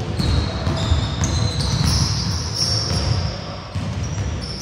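Basketball bouncing on a wooden gym floor with sneakers squeaking in short high chirps as players move, in a large echoing hall.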